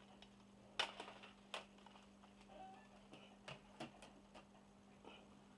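A few light clicks and taps from art-supply tins and boxes being handled and set down, over a faint steady hum.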